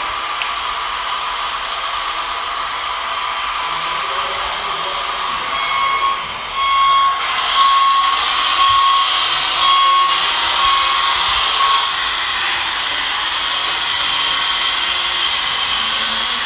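Small electric motors of radio-controlled model trucks and construction machines whining steadily, with a series of short electronic beeps from about six seconds in until about twelve seconds in.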